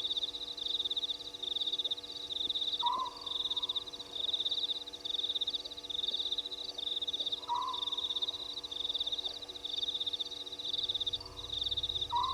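Night chorus of frogs and insects at a waterhole: a high, fast-pulsing trill repeating over and over, with a lower call rising and falling about every four to five seconds.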